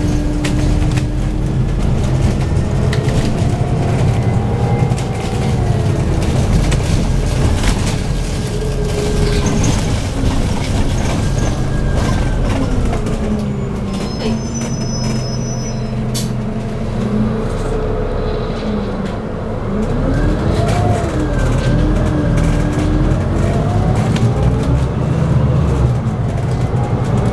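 Scania OC09 9.0-litre biogas engine of a double-decker bus, heard from inside the bus as it drives between stops. The engine note rises and falls several times as the bus speeds up, changes gear through its ZF Ecolife six-speed automatic and slows again.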